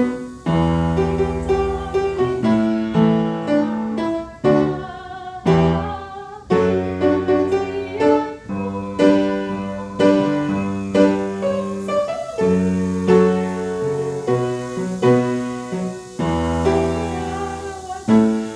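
Piano playing a slow piece in chords, with a new chord struck about every second over held bass notes.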